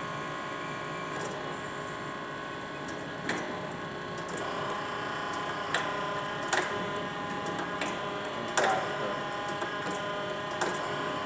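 Mitsui 8" x 18" automatic surface grinder running, a steady machine hum with a few fixed tones, broken by half a dozen sharp clicks or knocks at uneven intervals.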